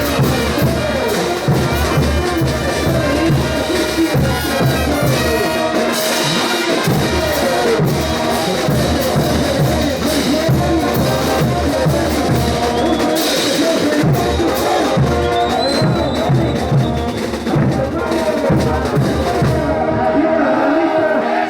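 Bolivian brass band playing ch'uta music: brass instruments carrying the melody over a steady beat of drums and cymbals.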